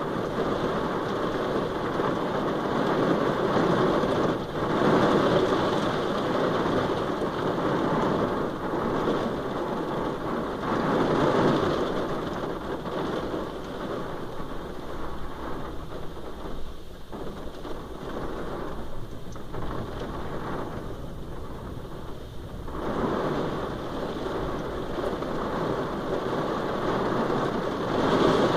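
Heavy rain pelting a car's roof and windows, heard from inside the cabin. The rain noise swells and eases several times, heaviest around the middle and near the end.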